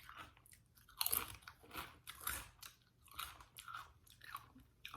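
Close-miked chewing of a mouthful of food, with irregular short crackling strokes about once or twice a second.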